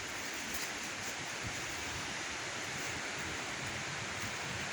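Steady, even outdoor background noise in the forest, with a few faint ticks.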